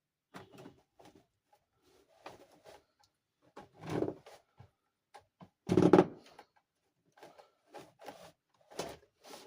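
Toy dollhouse castle pieces being handled and set in place: a scatter of light clicks and taps, with two louder knocks around the middle.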